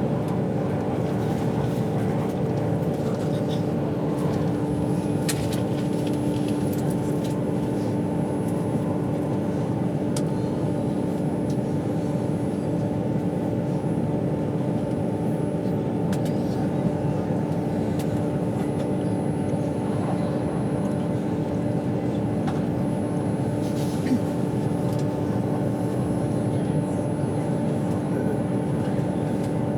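Steady interior running noise of a passenger train at speed: an even rumble with a constant hum, and a few faint ticks.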